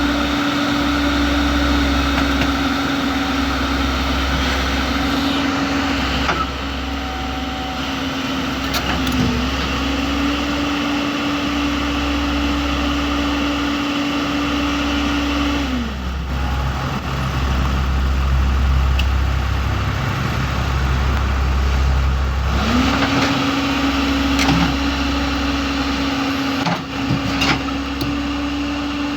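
JCB backhoe loader's diesel engine running at high revs under working load. About halfway through, the engine speed falls to a lower note for several seconds, then climbs back up. A few knocks near the end.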